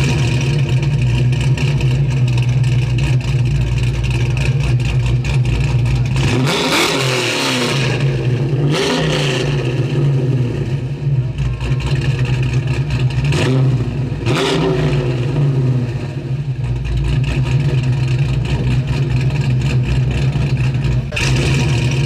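1957 Chevy 210's engine idling steadily, revved four times: a long rev about six seconds in, a shorter one soon after, and two quick blips around the middle.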